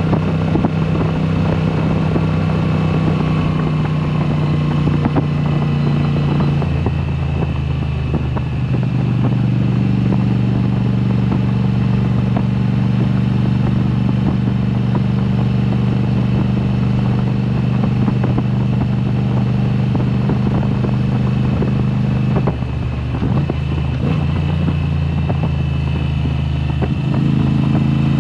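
2022 Moto Guzzi V7 Special's air-cooled transverse V-twin running through a Mistral exhaust with the dB killers removed, under way at steady engine speeds. The engine note drops in pitch about a quarter of the way in, dips briefly a little before the end, then rises again near the end, as with throttle or gear changes.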